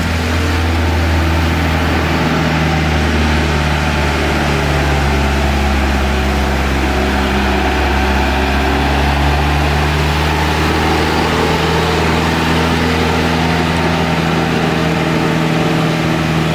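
Heavy lorry's diesel engine running steadily at low revs, pulling uphill, its pitch shifting slightly now and then.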